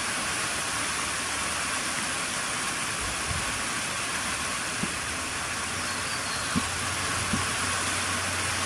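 Steady rain falling, an even hiss, with a low steady hum joining in about two-thirds of the way through.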